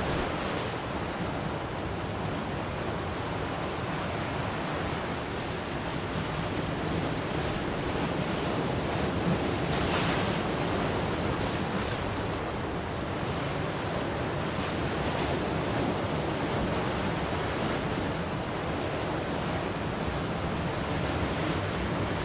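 Ocean surf: a continuous wash of breaking waves that swells gently. One wave breaks with a brighter, hissier surge about ten seconds in.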